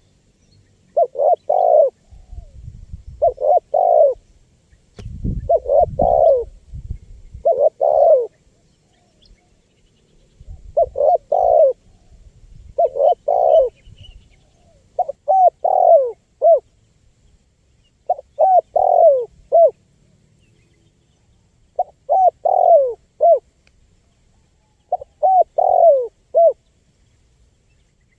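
Spotted dove (tekukur) cooing over and over, about ten short phrases of three or four notes each, one every two to three seconds. A low rumble sits under several of the calls.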